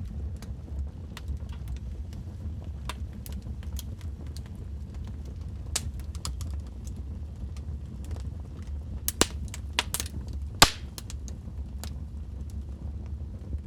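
Wood fire burning in a fireplace: a steady low rumble with irregular crackles and snaps from the logs, the loudest pops a little after nine seconds and at about ten and a half seconds.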